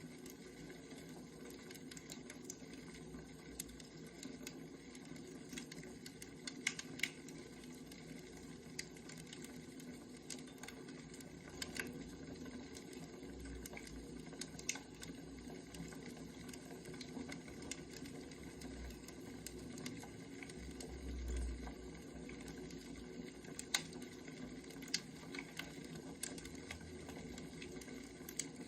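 Firewood burning, crackling with irregular sharp pops over a steady low hum.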